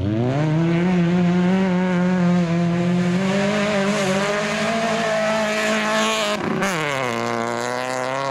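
Autocross race car engine running hard on a dirt track. Its pitch dips and climbs back at the start, holds high and steady for about six seconds, then drops sharply with a brief break about six and a half seconds in and carries on at a lower pitch.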